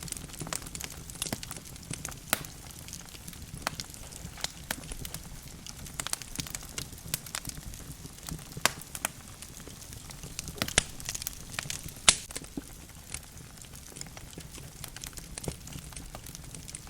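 Wood logs burning in a fireplace, crackling with irregular sharp pops and snaps over a low steady rumble of flames. The loudest pop comes about twelve seconds in.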